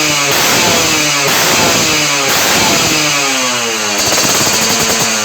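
Yamaha RX King's two-stroke single-cylinder engine blipped repeatedly through an aftermarket 'Lobster' racing exhaust, its pitch falling away after each blip, about once a second.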